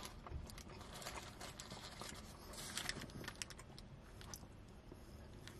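Faint chewing of a mouthful of beef shawarma, heard as a scatter of soft wet mouth clicks, with a little rustle from the paper wrapper.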